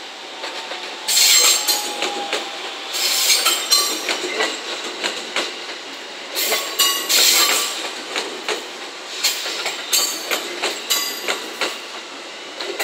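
JR West 223-5000 series and JR Shikoku 5000 series electric multiple unit running slowly past. The wheels click rapidly over rail joints and points, with several loud stretches of high-pitched wheel squeal.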